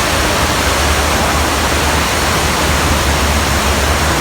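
Loud, steady rush of water from the staged flood in the studio tour's earthquake set, over a continuous low rumble.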